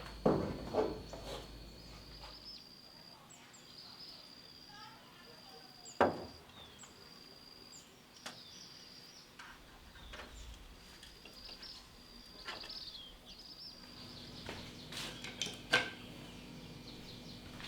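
A steady high insect buzz with bird chirps, broken by a few sharp knocks: a cluster just at the start, a single loud one about six seconds in, and a few more near the end.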